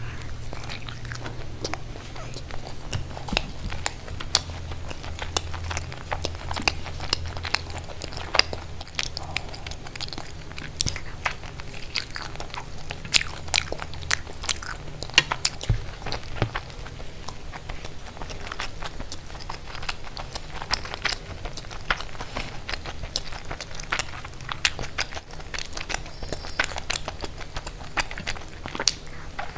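Close-miked eating: biting and chewing with frequent sharp crunches and wet clicks, irregular and continuous, over a low steady hum.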